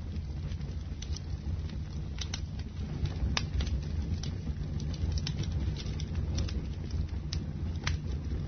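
Bonfire burning with a steady low rumble and scattered sharp crackles and pops of the burning wood, about one or two a second.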